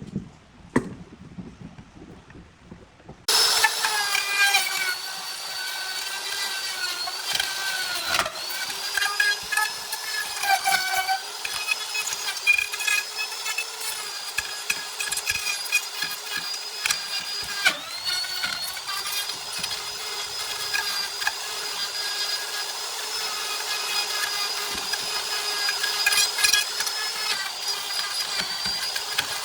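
Wood lathe running while a turning tool cuts a spinning wood-and-epoxy blank: a steady, slightly wavering whine with scraping noise, starting suddenly about three seconds in.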